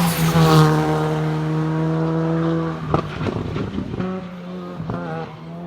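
Race car engine at full throttle on a hillclimb, a steady high-revving note whose pitch sinks slowly. About three seconds in there is a sharp break, likely a gear change, and the engine note then picks up again.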